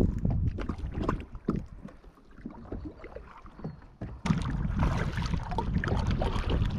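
Kayak on the water: water sloshing and knocking against the hull, with wind rumbling on the microphone. It quietens in the middle, then turns suddenly louder about four seconds in.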